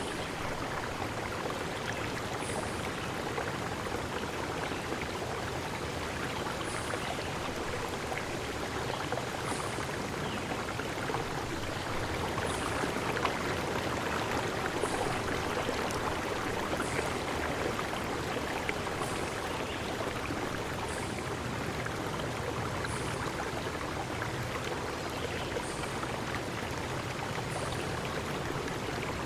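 A forest stream running steadily, with a short, high chirp repeating about every two seconds.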